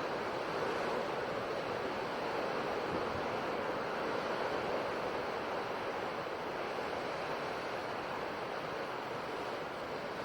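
Sea waves washing onto a shore: a steady surf wash with gentle swells in loudness.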